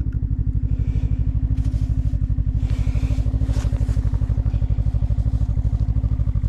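Snowmobile engine idling steadily with a fast, even pulse, with some scraping and clattering over it about a second in and again around three seconds in.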